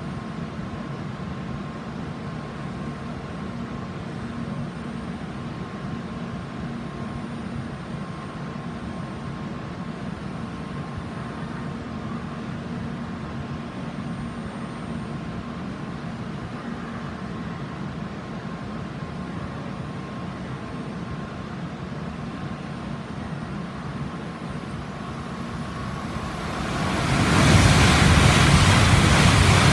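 A steady low hum with faint steady tones, then, about 26 seconds in, a sudden loud rush of noise: the Type 923 Doctor Yellow Shinkansen passing through the station without stopping.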